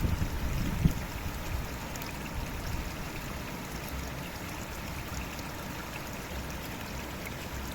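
Stream water running steadily, with a low rumble in about the first second.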